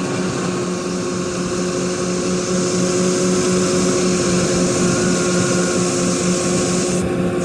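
Rice combine harvester running steadily, its engine and threshing machinery making a constant hum under a loud hiss. The hiss grows a little louder a couple of seconds in, and its high part drops away suddenly near the end.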